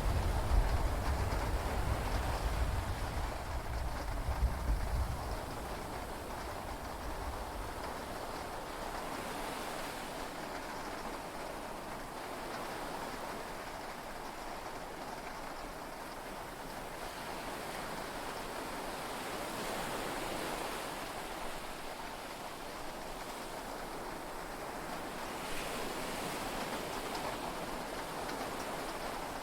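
A low thunder rumble dies away over the first few seconds. Then comes a steady hiss of heavy rain and sea waves, heard from inside a yacht's cabin.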